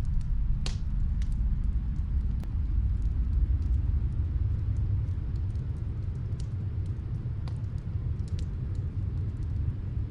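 Snowstorm wind as a steady low rumble, with the faint scattered crackle of a wood fire on top, one pop a little more marked about two-thirds of a second in.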